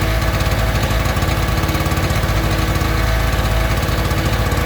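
Small two-stroke engine running steadily with a fast, even beat, just started after its fouled, blackened spark plug was wire-brushed clean.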